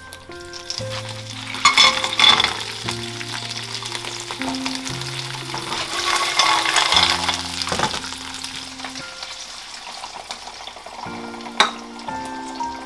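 Clams with chillies, garlic and greens sizzling in hot oil in a frying pan, with loud surges of sizzle about two seconds in and again about halfway through. There is a single sharp click near the end, over background music.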